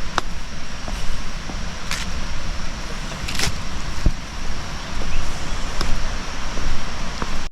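Wind rumbling and buffeting on the microphone over a steady rushing hiss, with a few sharp clicks. It cuts off abruptly near the end.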